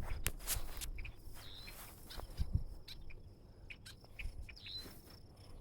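Crickets trilling steadily, with scattered short bird chirps and a few clicks.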